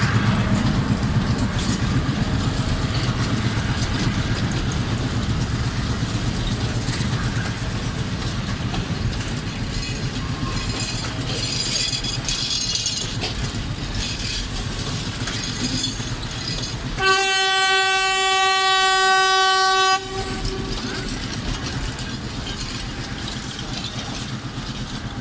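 Train running on the rails with a steady rumble and clatter that slowly fades. About two-thirds of the way through, a single steady horn note sounds for about three seconds, louder than the rail noise.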